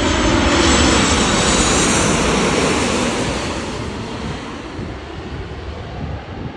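Jet airliner's engines roaring as it passes close by, then fading steadily as it moves away.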